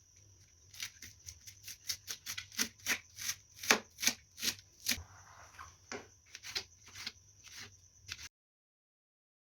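A series of sharp taps and knocks from kitchen food preparation, about two to three a second, cutting off abruptly about eight seconds in.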